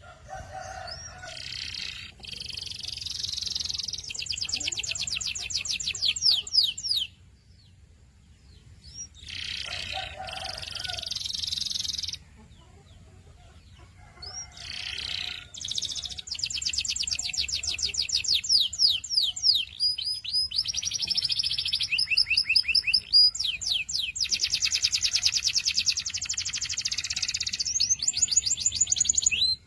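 Domestic canary singing in phrases of rapid, high trills (rolls), with pauses of one to two seconds between the early phrases. The second half is a long unbroken run of changing trills that cuts off sharply near the end.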